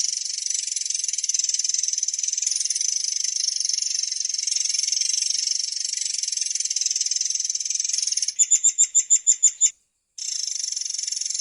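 Murai air song: a long, unbroken, high-pitched trilling roll. Near the end it turns into a quick run of about nine loud, evenly spaced notes, cuts out abruptly for a moment, then the roll starts again.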